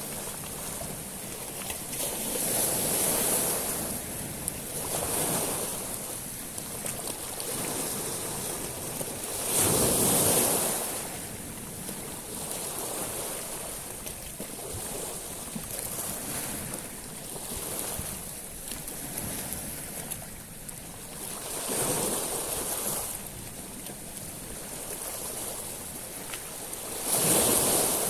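Sea waves washing up on a beach of small stones, each wash bringing a hiss of water through the pebbles over a steady background of surf. The biggest waves come about ten seconds in and again near the end, with smaller ones in between.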